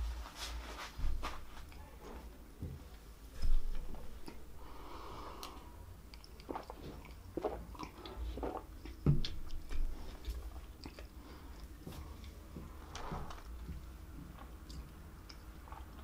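A woman chewing and biting fast food close to the microphone, with scattered small wet clicks and crunches. About a third of the way through she drinks from a glass of cola, and there is a sharp knock about nine seconds in.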